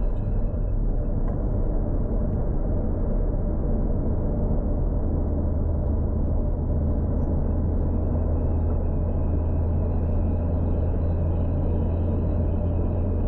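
Turbocharged Toyota Supra MK4's 2JZ inline-six engine running steadily at constant revs, a low, even drone with no rise or fall in pitch.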